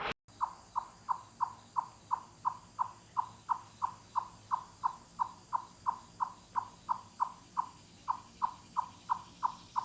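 An animal calling in a steady series of short, clear chirps, all on about the same middle pitch, about three a second, with a brief gap near the end.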